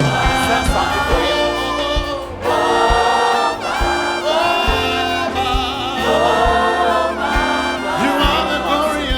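Gospel worship music: voices singing long, gliding phrases over sustained keyboard chords and a steady low beat.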